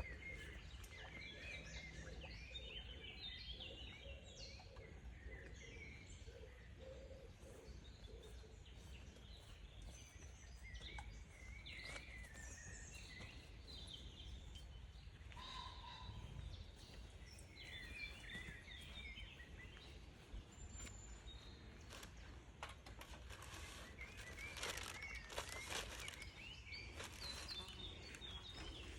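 Small birds chirping and calling over a faint steady low hum, with a few soft knocks near the end.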